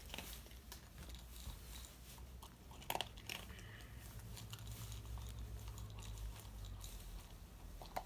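Shiba Inu chewing and crunching its food, faint irregular crunches with a louder one about three seconds in.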